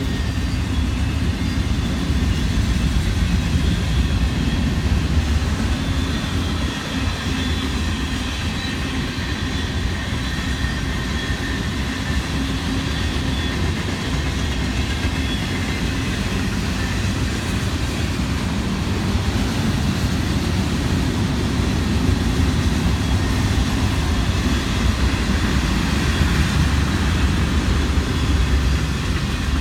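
A train rolling past, with a steady low rumble of wheels on the rails that continues without a break.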